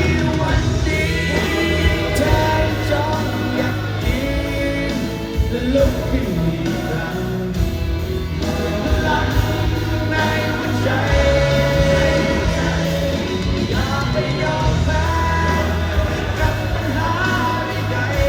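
A band playing a pop-rock song live, with singing over the music.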